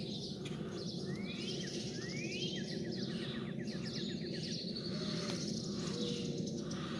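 Songbirds calling over a steady low background rumble: two rising whistled notes about one and two seconds in, the second running into a quick trill, with scattered higher chirps throughout.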